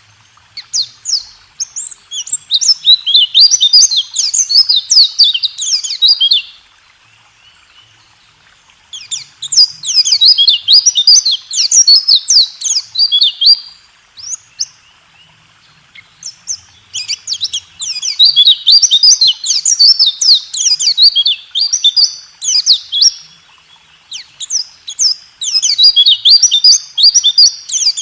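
A white-eye (pleci) singing its rolling 'tembak' song: long runs of rapid, high, falling notes lasting several seconds each, broken by short pauses of two or three seconds.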